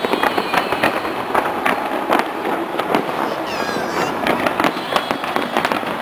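Fireworks going off in quick succession, a dense string of sharp pops and crackles over a steady rumble of noise.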